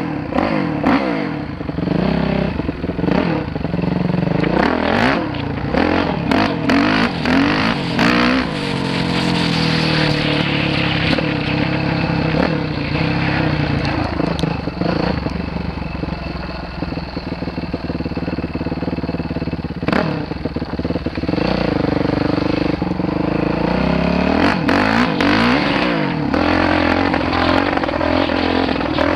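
Dirt bike engine revving up and down repeatedly as it is ridden, with frequent sharp knocks and clatter.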